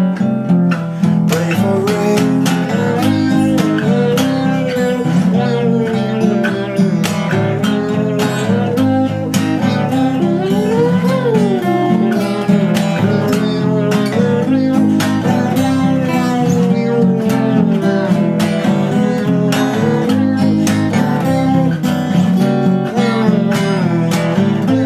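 Acoustic guitar strumming steadily in an instrumental passage of a folk song, with a lead melody line gliding up and down above the chords.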